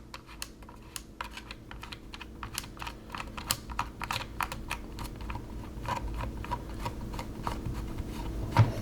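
Irregular light clicks and taps of small hardware being handled: a washer and binding barrel hand-threaded onto a machine screw in a holster adaptor's bottom plate.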